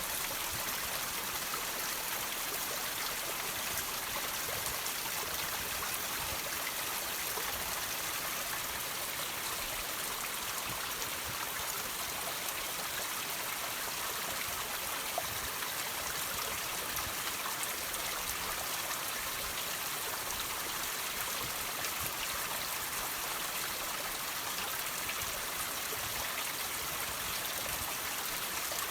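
Water trickling and dripping over rocks: a steady hiss of running water with small drips ticking through it.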